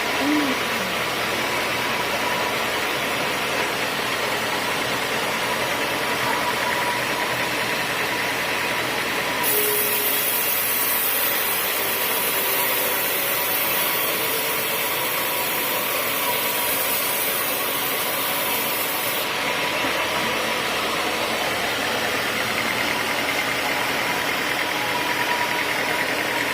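Sawmill machinery running steadily. A bright, high hiss starts suddenly about a third of the way in and cuts off about three quarters of the way through.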